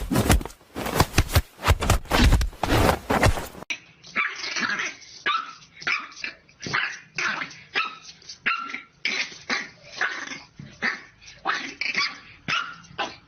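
A dog barking repeatedly in short barks. A little over three seconds in the sound cuts to another recording, where the barks come about once a second and sound thinner.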